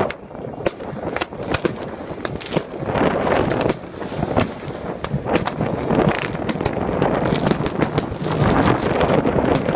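Fireworks going off, with many sharp, irregular cracks and pops over a continuous rushing hiss.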